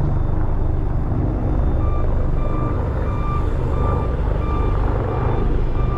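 A truck engine running with a steady low rumble; about two seconds in, a vehicle's reversing alarm starts beeping, roughly one and a half beeps a second.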